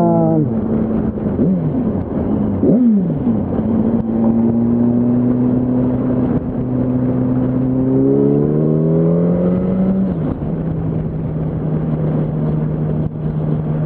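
Yamaha R1 inline-four engine running under the rider at a steady speed, then rising in pitch as it accelerates for about two seconds and dropping back at an upshift, then holding steady again.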